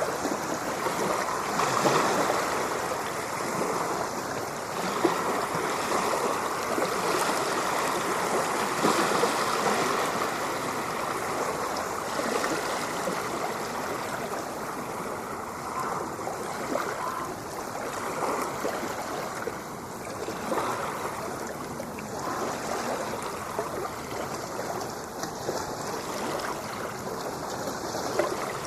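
Ocean water washing and lapping continuously, a little louder in the first ten seconds and then steady with small swells.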